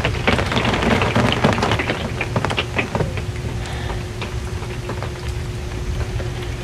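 Rain pattering on an RV's metal roof, with many individual drops tapping. It is heaviest in the first couple of seconds, then thins to scattered taps. A steady low hum runs underneath.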